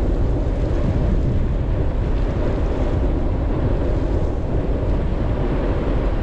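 Wind rushing over the microphone of a moving bicycle's camera, a steady low rumble.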